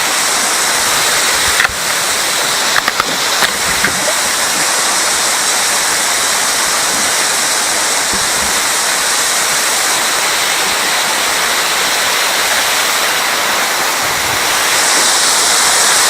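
Cascading waterfall rushing steadily, with a few sharp knocks a couple of seconds in; the rush grows a little louder near the end.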